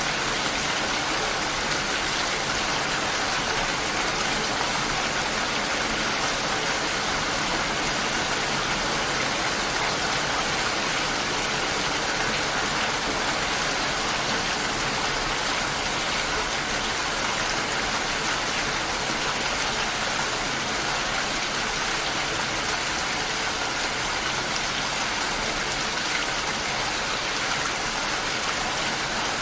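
Light rain falling steadily, an even hiss with no change throughout.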